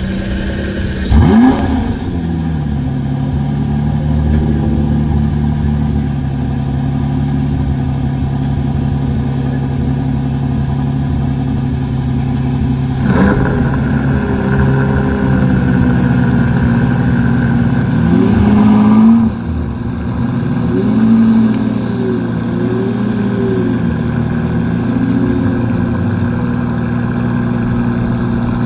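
2003 Lamborghini Murciélago's 6.2-litre V12 starting from cold: it catches about a second in with a loud flare of revs, then settles into a steady fast cold idle. About two-thirds of the way through the revs climb and then drop back suddenly, followed by a few smaller swells in pitch.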